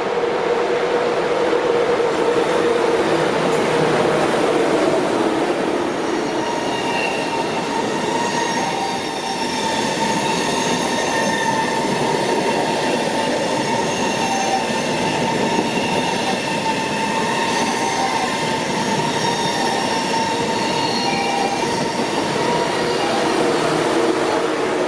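ICE high-speed train running past the platform: a steady rumble of wheels on rails with several high, steady squealing tones over it through most of its passage.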